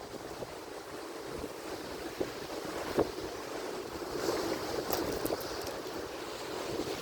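Atlantic Ocean surf: a steady rushing wash of waves that swells a little past halfway into a louder, hissing splash of a breaking wave.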